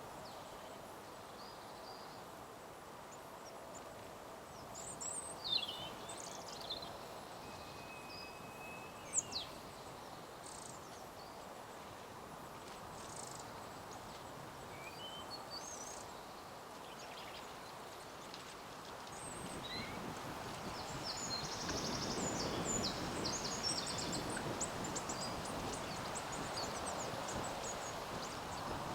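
Outdoor ambience with scattered short, high bird chirps and calls. About two-thirds of the way through, a steady rushing noise swells up and stays.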